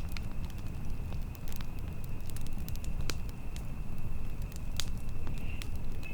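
Campfire burning: scattered sharp crackles and pops of burning wood over a low steady rumble, with a thin steady high tone underneath.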